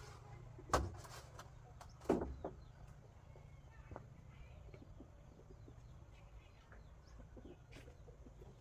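Chickens clucking: two louder clucks about a second and a half apart near the start, then fainter scattered clucks over a low steady hum.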